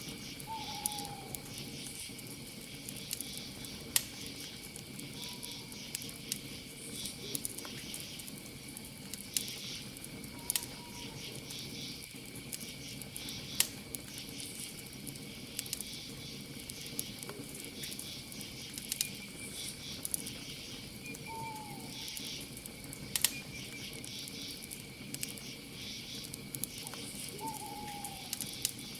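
Campfire crackling, with sharp pops scattered through, over a steady high insect trill. A short falling call from a night animal sounds about five times, every few seconds.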